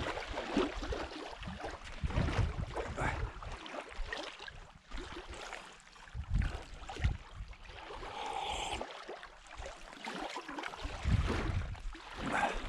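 Water lapping against a small boat, with wind buffeting the microphone and light knocks. One brief high-pitched sound about eight seconds in.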